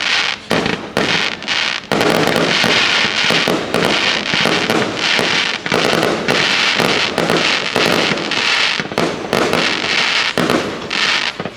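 Fireworks: a few separate bangs, then, about two seconds in, a dense run of overlapping bursts and crackling that thins out near the end.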